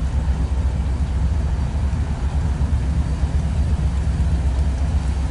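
Freight train rolling slowly past: a steady low rumble.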